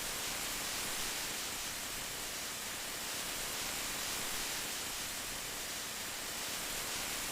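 Steady rain falling: an even, unbroken hiss, strongest in the high end, with no single drops standing out.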